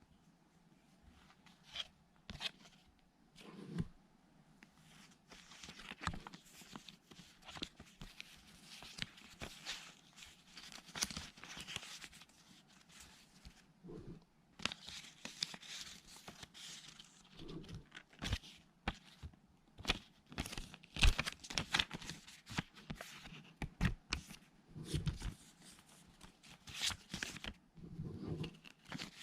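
Packaging being opened by hand: tearing and crinkling of wrapping, with irregular small clicks and taps as the pieces are handled.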